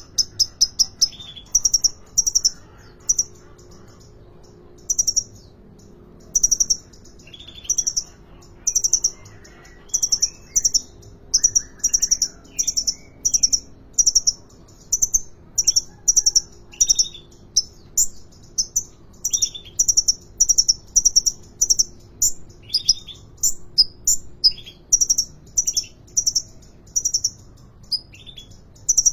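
Sunbird, the cage bird Indonesian keepers call kolibri ninja, singing busily. Its song is a long string of short, very high-pitched chirps, many in quick clusters, with a few lower notes mixed in.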